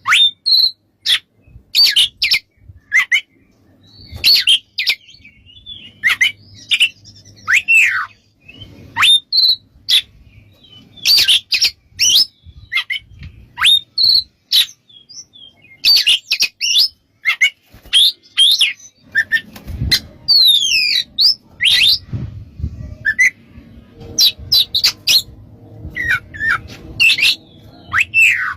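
Oriental magpie-robin singing loudly in quick phrases of sharp chips and down-slurred whistles, with short gaps between phrases.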